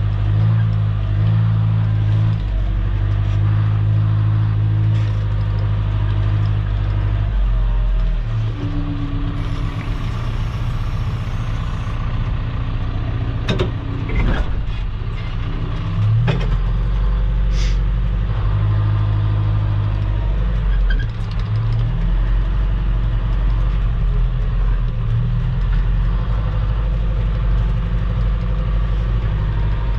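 Heavy equipment engine running steadily, its note shifting a few times, with several sharp clanks about halfway through.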